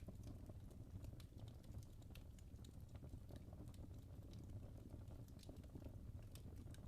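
Wood fire in a fireplace crackling softly: faint, irregular snaps and pops from the burning logs over a low, steady rumble of the flames.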